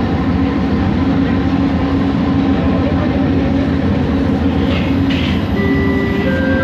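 Bombardier Innovia ART 200 light-rail train running at steady speed, heard from inside the car: the hum of its linear induction motors over the rumble of the running gear. Near the end an onboard chime starts, a couple of clean tones stepping upward.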